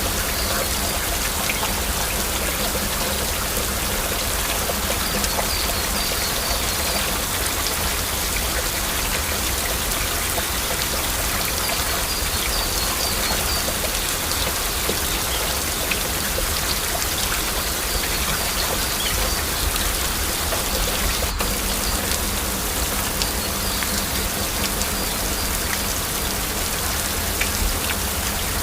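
Steady heavy rain, with individual drops ticking throughout.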